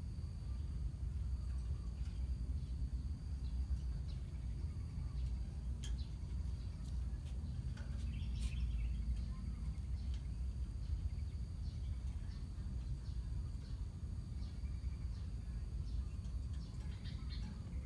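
A colony of lovebirds chirping faintly, with short scattered calls and a small flurry about halfway through, over a steady low rumble and a thin, steady high-pitched whine.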